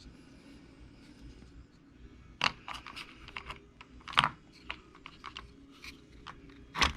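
Light clicks and taps of small plastic and metal parts being handled on a workbench, scattered and uneven, starting about two and a half seconds in.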